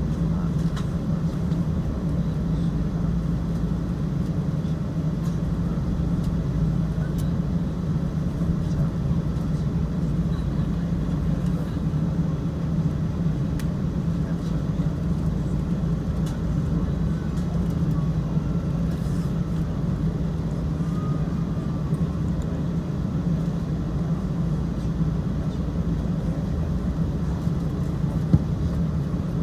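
Steady low drone of a Boeing 777-200ER's engines and cabin air system, heard inside the passenger cabin while the airliner is on the ground before takeoff.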